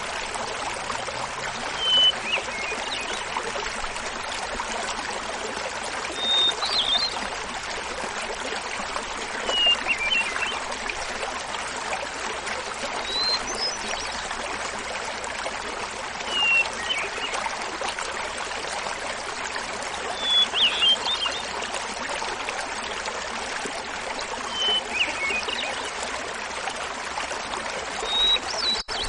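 Small mountain waterfall babbling steadily, with a hermit thrush singing over it. There are about eight flutelike phrases a few seconds apart, each a held opening note followed by a quick flutter of notes, pitched higher or lower from phrase to phrase.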